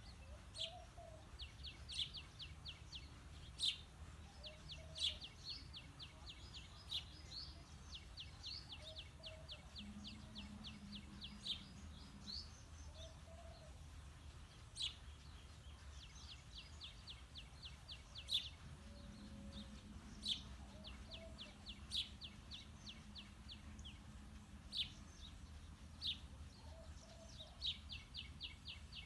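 House sparrows chirping: sharp single chirps mixed with fast runs of repeated notes, about ten a second, going on and off throughout.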